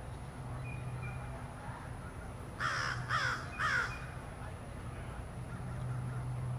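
A bird gives three harsh calls in quick succession midway through, over a steady low background hum.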